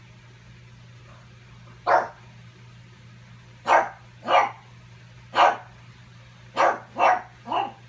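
A pug barking: seven short, sharp barks. The first comes about two seconds in, and the rest follow in an uneven run, with three close together near the end.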